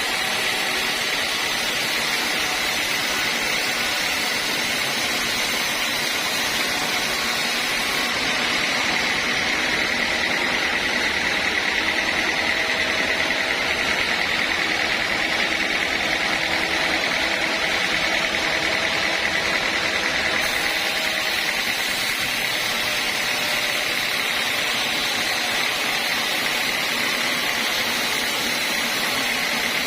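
Band sawmill running steadily, with a constant high whine over the machine noise.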